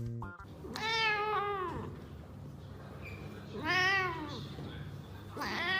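A cat meowing three times, each meow long and drawn out, rising then falling in pitch.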